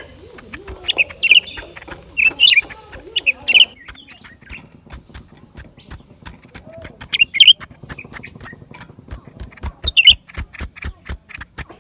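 Blue-winged leafbird calling: short, sharp, high chirps in quick clusters of two or three, coming several times. A run of fast dry clicks sets in about four seconds in.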